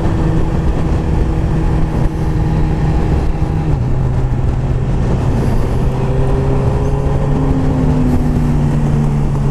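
Motorcycle engine running at steady cruising revs, heard with wind rush on the mic; its pitch drops a step about four seconds in and then holds steady.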